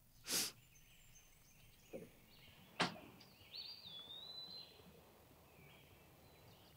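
Quiet outdoor ambience with birds: a short whoosh about half a second in, a small click and then a sharp tap just before three seconds, then a drawn-out whistled bird call with fainter chirps after it.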